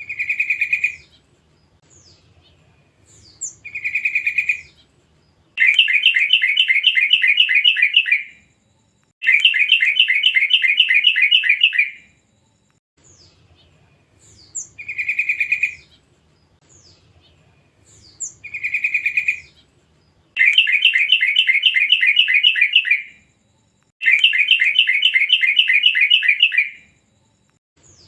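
Yellow-vented bulbul (cucak trucuk) chattering: short bright calls followed by long, fast, rattling trills of repeated notes. The same sequence of phrases plays twice, as a looped lure recording meant to set other trucuk birds singing.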